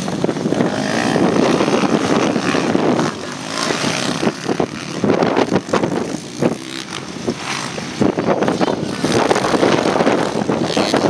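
Motocross bike engines running, with a rough, uneven, fluctuating sound.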